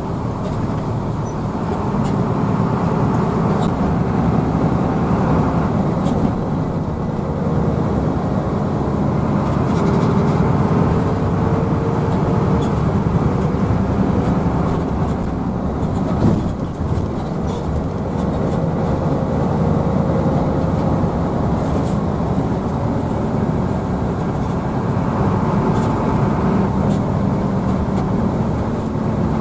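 Hino AK bus's diesel engine running steadily under way, with a faint whine over the low drone. The sound dips briefly about halfway through.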